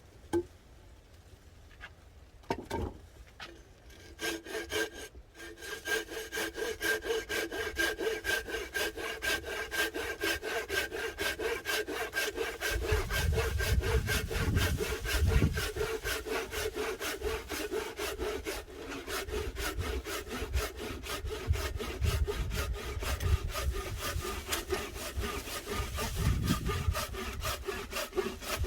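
Hand saw cutting through firewood in steady back-and-forth strokes, several a second, with the blade ringing. The sawing starts about four seconds in, after a single knock.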